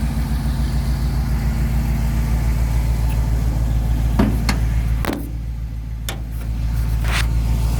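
1970 Chevy truck's engine idling steadily, with a few sharp knocks or clicks about halfway through.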